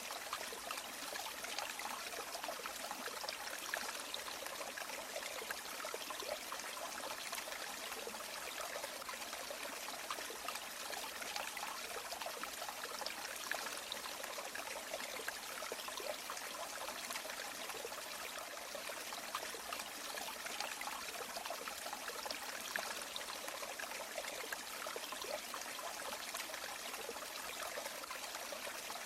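River water flowing steadily over stones, a continuous babbling and trickling with no breaks.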